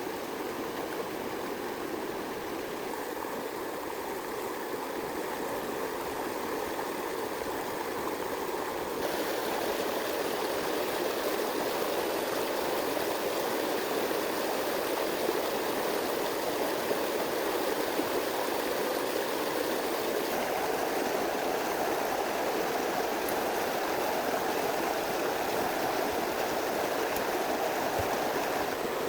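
Steady rushing of running water. It gets a little louder and brighter about a third of the way in.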